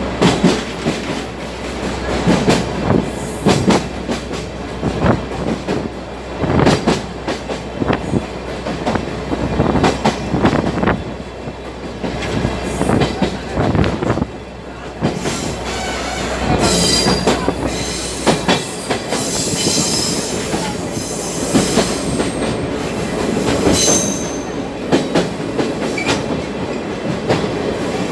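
Sagano Trolley Train carriage running on the line, its wheels clattering irregularly over the rails. From about 16 seconds in, high-pitched wheel squeal comes and goes.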